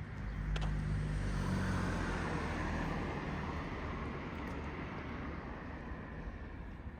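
A car driving past, its engine and tyre noise loudest a second or two in and then fading away.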